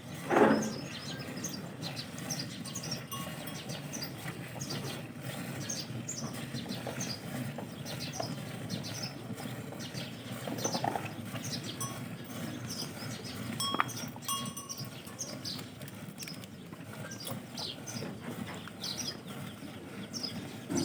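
Banni buffalo being hand-milked fast, milk streams hitting a metal pail in a steady rush, with livestock close by. A short loud call comes near the start.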